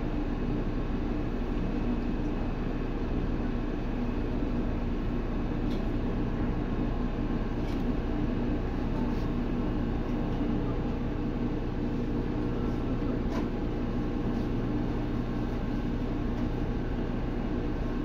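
Steady on-board noise of a Seibu 2000 series electric commuter train, heard from inside the car above its HB-2000 underfloor unit. It is an even hum with a few faint clicks.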